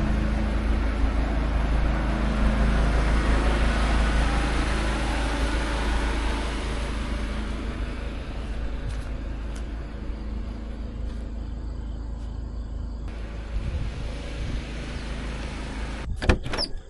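A vehicle's engine running steadily, with a broad rushing noise that is loudest in the first few seconds and fades away. A few sharp knocks come near the end.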